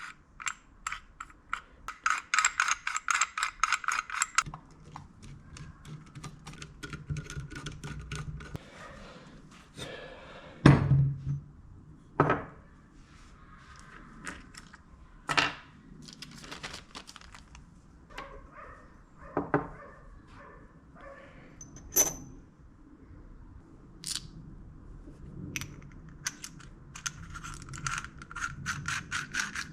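Metal parts and tools being handled on a workbench during a hand-drill restoration. Two runs of rapid, even clicking come at about eight a second, one early and one near the end, and between them there are several sharp knocks.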